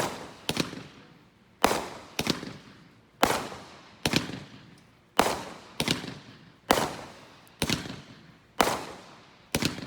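A multi-shot consumer firework cake firing: sharp bangs about once a second, some in quick pairs, each one trailing off in a fading echo.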